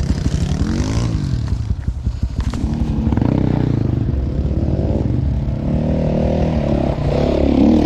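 Dirt bike engine revving up and down over and over, the pitch rising and falling as the throttle is worked, as on a hard-enduro trail climb.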